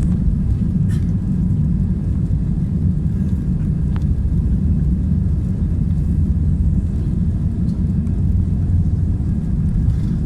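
Steady low cabin rumble of an Airbus A319-111, its CFM56 jet engines and the airflow heard from a window seat inside the cabin, with a couple of faint ticks.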